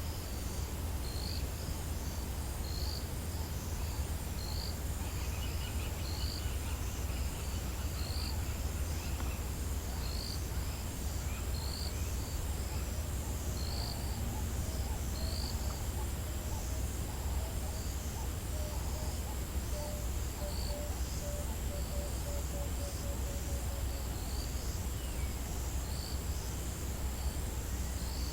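African bush ambience at sunrise: a steady high insect drone with a short high chirp repeating about every one and a half seconds. Midway a low call of repeated notes speeds up and then stops, over a faint low rumble.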